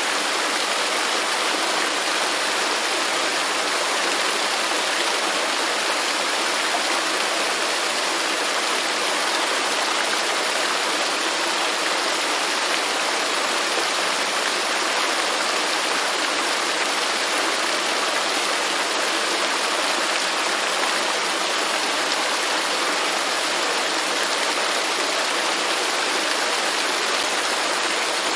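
Waterfall: falling water rushing in a steady, even hiss, unchanging throughout, with little deep rumble.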